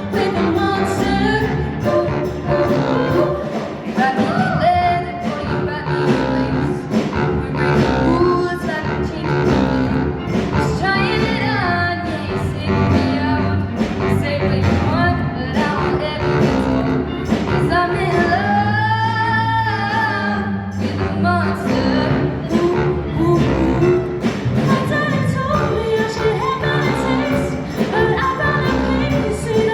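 Show choir singing with live band accompaniment: many voices over bass, drums and guitar with a steady beat, in a large hall.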